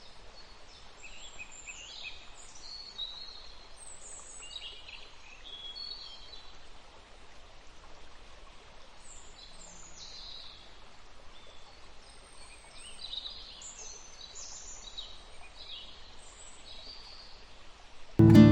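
Birds chirping and singing in short, repeated downward-sweeping calls over a faint steady outdoor hiss. Loud plucked-guitar music cuts in abruptly at the very end.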